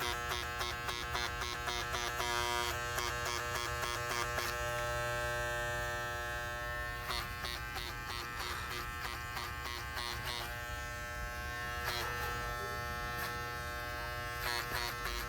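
Electric hair clippers running steadily with a buzzing hum while trimming a poodle's coat, with stretches of rapid clicking as the blades work through the fur.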